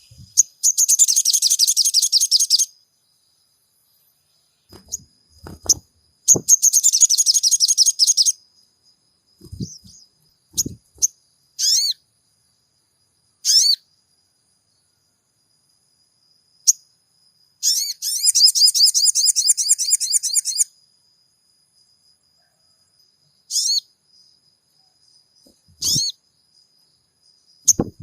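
Sogon bird calling: three rapid, high, rattling trills of two to three seconds each, with single sharp down-slurred notes between them.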